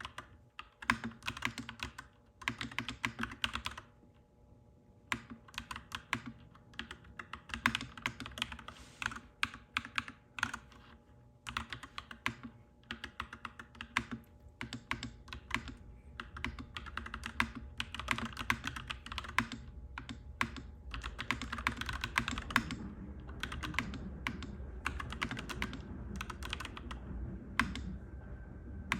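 Clacky mechanical keyboard being typed on steadily in runs of keystrokes with short pauses. A low rumble builds up beneath the typing from about halfway.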